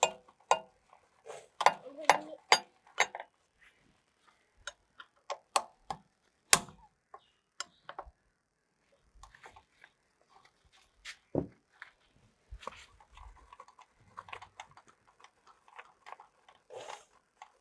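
Metal tools clicking and knocking irregularly against the diesel filter of a John Deere 5405 tractor as it is being unscrewed and removed. The clicks come thick and fast at first, then thin out, with a single heavier knock near the middle.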